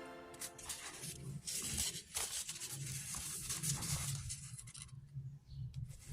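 Sheet of paper being handled and folded: soft, irregular rustling and crinkling with a few sharp crease clicks.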